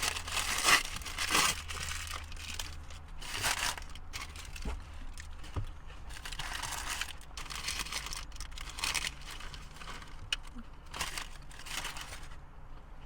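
Paper burger wrapper crinkling and rustling in several irregular bursts as a Burger King Whopper is handled and unwrapped.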